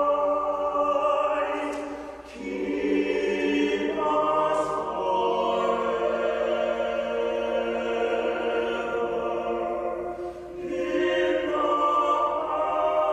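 Choir singing slow, sustained chords, the voices moving together to a new chord a few times, with two short breaths between phrases.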